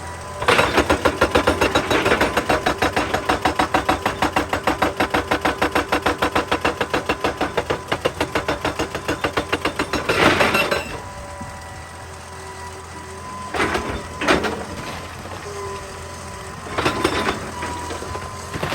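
Excavator-mounted hydraulic rock breaker hammering rock in a rapid, even series of blows for about ten seconds, then stopping. Afterwards the machine runs on with a steady whine, and a few heavy knocks of rock come near the end.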